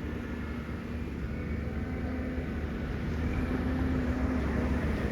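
Truck engine running with a steady low rumble and droning tone, growing slowly louder.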